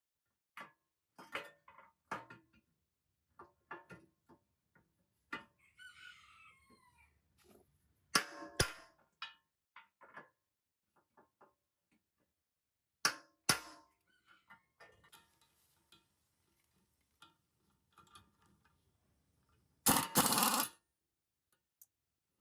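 Scattered clicks, knocks and clanks of parts and tools being handled, with two sharp loud knocks and, near the end, a harsh noisy burst lasting under a second. A rooster crows in the background about six seconds in.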